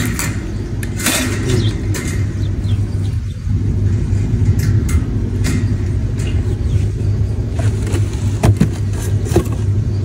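Steady low rumble, with a few light clicks and rattles from a wire birdcage door being handled in the second half.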